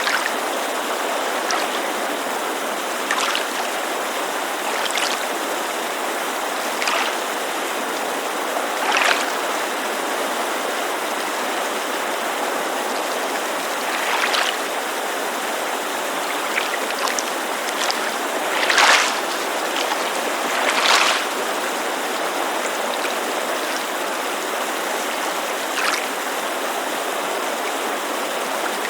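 Steady rushing of a mountain creek, with water lapping at a lakeshore in brief, irregular splashes, about eight of them, the loudest two near the middle.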